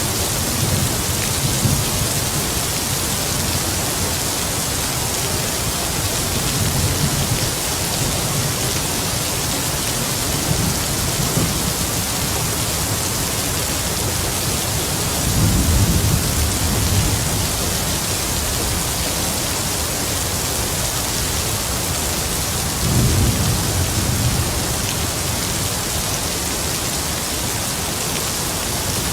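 Heavy rain falling in a steady hiss, with distant thunder rumbling low several times; the loudest roll comes about halfway through and another near the end.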